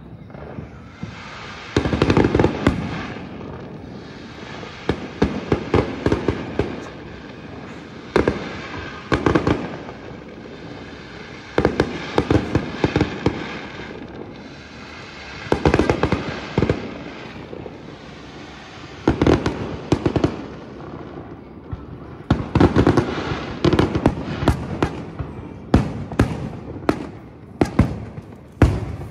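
Aerial fireworks shells bursting in groups of sharp bangs every few seconds, each bang echoing, with a quick string of bangs near the end.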